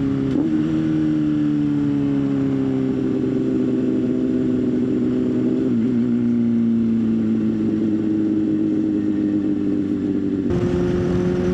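Motorcycle engine running under way at a steady cruise. Its note sinks slowly as the bike eases off, wavers briefly about six seconds in, then steps up abruptly to a slightly higher steady note near the end.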